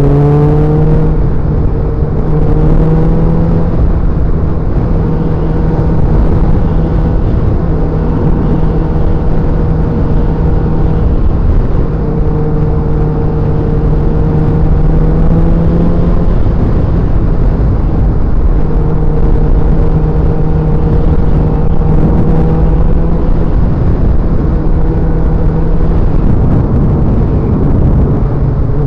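Motorcycle engine running steadily at cruising speed close by, its pitch rising in the first second as it picks up speed and then holding level, over a heavy low rumble.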